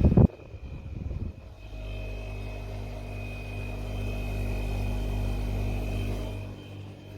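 Pro Breeze 20-litre dehumidifier running with a steady electrical hum, after a loud thump at the start and a short rattle about a second in; the hum quietens near the end.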